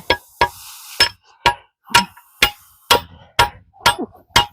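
Steady hammer blows on steel, about two a second with a short metallic ring after each, driving a stuck shaft out of an old Ford manual transmission case.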